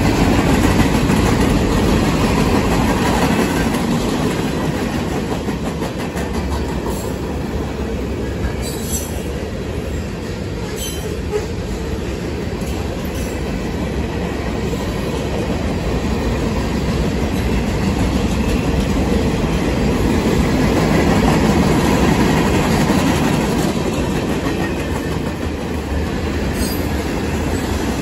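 Freight cars of a passing manifest train rolling by, a steady loud rumble and rattle of steel wheels on rail. A few brief high wheel squeals come about 9 and 11 seconds in and again near the end.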